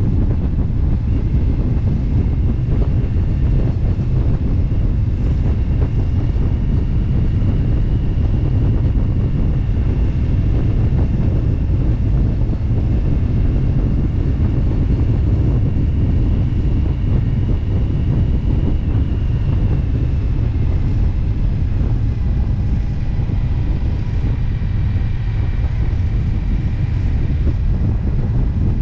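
Wind buffeting the microphone of a motorcycle riding at steady road speed, with a low engine and road rumble underneath; the sound stays even, with no gear changes or revving.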